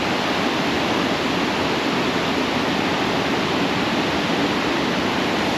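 The Pliva Waterfall: a large waterfall's falling water making a steady, loud rush with no breaks.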